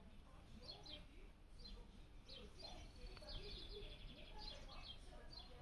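Faint background birdsong: scattered short, high chirps, with a quick trill a little past the middle.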